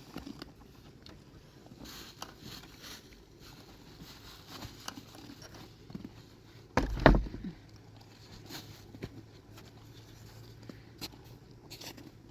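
Scattered small knocks and scrapes, with one heavy thump about seven seconds in.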